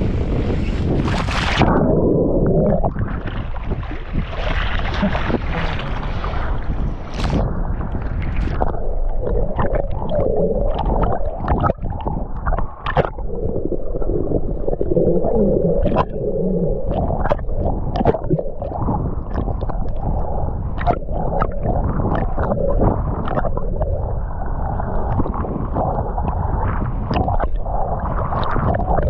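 Underwater sound through a submerged camera: a muffled rush of moving water with gurgling bubbles and scattered clicks and knocks. Within the first two seconds the bright, splashy surface sound gives way to it as the camera goes under.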